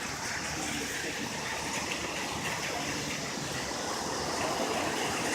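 Steady road and wind noise of a car driving, heard from inside the cabin.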